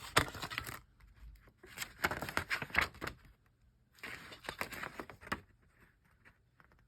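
Paper CD booklet being handled and its pages turned: three short bursts of rustling with small clicks, with quiet between them.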